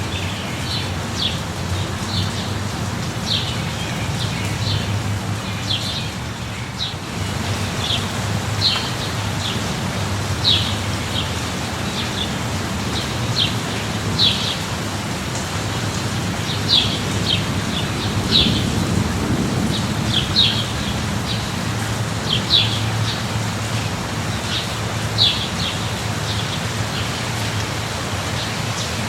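Steady light rain with a low, even rumble underneath, while a bird repeats short high chirps every second or so.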